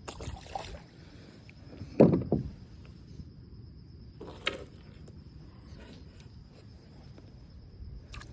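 A few hollow knocks and bumps on a kayak. The loudest comes about two seconds in and another comes a couple of seconds later, over a faint steady high-pitched tone.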